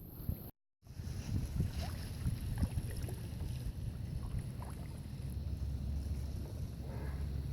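Wind and water noise from a kayak out on the water: after a brief dropout to silence, a steady low rumble of wind on the microphone with scattered small ticks and splashes.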